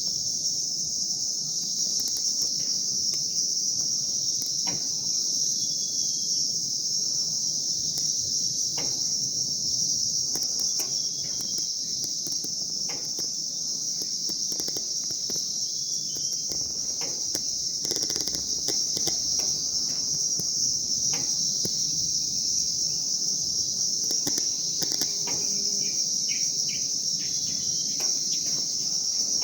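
Steady high-pitched insect chorus, with a few short bird chirps mostly near the end.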